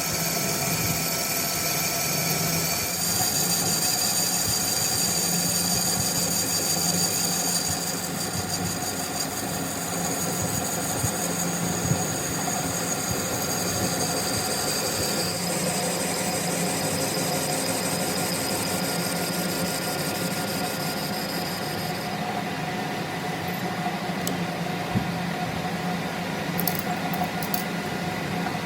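A motor running steadily with a high-pitched whine whose pitch shifts a few times, over a low hum.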